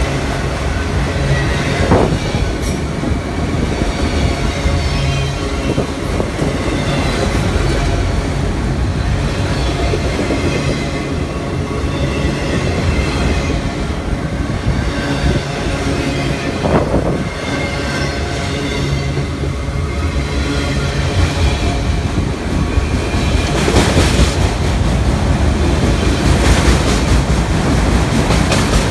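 Freight train of autorack cars rolling past close by: a steady rumble and clatter of steel wheels on rail, with thin high wheel-squeal tones and a few louder clanks.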